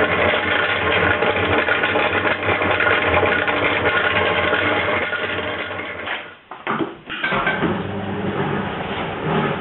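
1953 Thor Automagic combination washer and dishwasher running, a steady mechanical hum and churn. The sound drops away briefly about six seconds in, then resumes.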